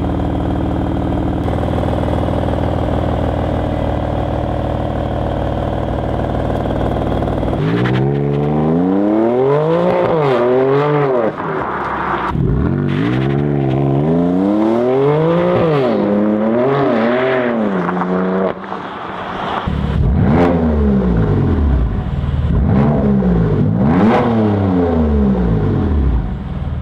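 BMW M4's twin-turbo straight-six idling steadily for about seven seconds, then revved repeatedly while stationary, its pitch rising and falling about a dozen times in quick succession.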